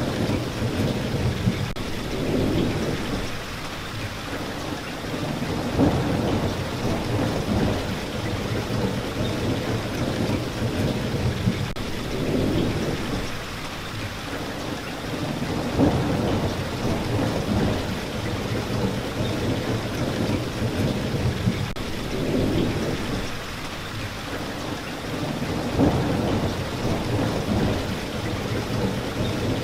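Steady rain falling, with a low rumble that swells and fades about every ten seconds.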